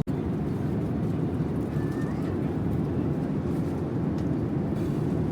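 Steady low rumble inside the cabin of a Boeing 787-9 airliner, from its engines and the airflow around the fuselage.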